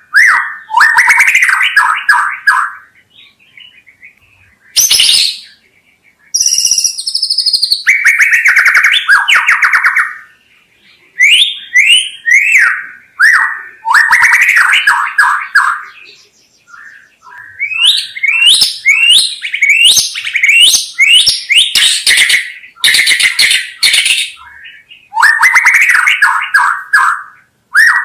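White-rumped shama (murai batu) singing loudly: phrases of rapid trilled notes and sweeping, falling whistles, each a second or two long, broken by short pauses.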